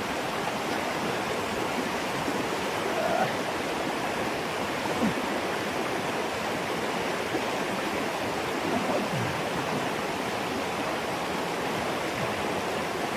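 Creek water flowing steadily over rocks, a continuous even rush.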